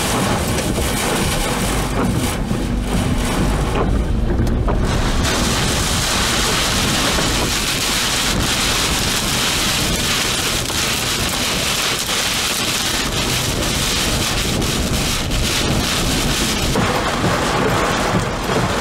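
Heavy wind-driven rain beating on a vehicle's windshield and body, with a low wind rumble. About five seconds in, the downpour grows much louder and hissier.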